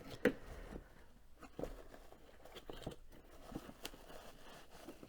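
Faint handling noise: a few scattered light clicks and taps as a ceramic mug and other objects are picked up and moved about on a table.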